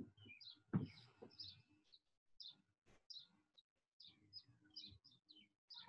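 Faint birdsong: short high chirps repeating a few times a second, with a dull thump about a second in.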